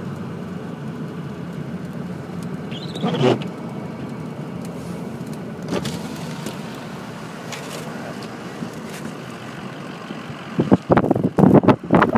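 Steady road and engine noise inside a vehicle's cab as it drives along snowy streets. About ten and a half seconds in, loud irregular gusts of wind buffet the microphone.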